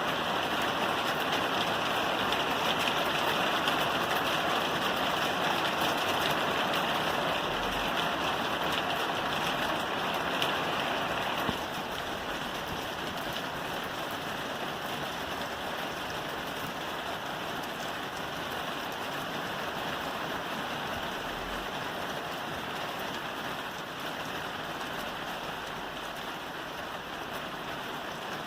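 Rain falling steadily on a roof, a dense even hiss of drops; it becomes slightly quieter abruptly about a third of the way through, then carries on evenly.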